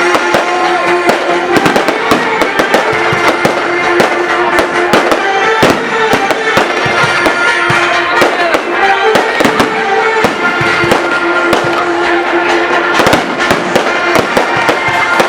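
Fireworks and firecrackers popping and banging in quick, dense succession.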